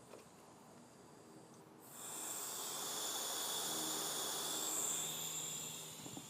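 Pressurized gas hissing loudly, starting about two seconds in, holding steady for about four seconds, then fading.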